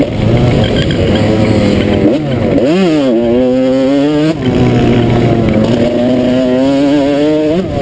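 Motocross dirt bike engine revving hard and changing pitch through the gears. There is a quick rev up and back down about three seconds in, a sudden drop in revs near four and a half seconds, then a slow climb and a sharp rise in revs near the end.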